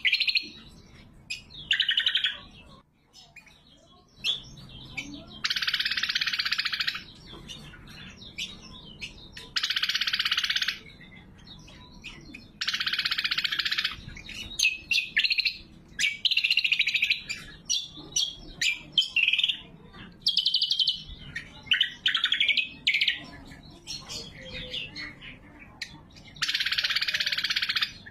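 Greater green leafbird (cucak kombo) singing: dense, rattling phrases about a second long come every few seconds, five or so in all, between short sharp chirps and whistled notes.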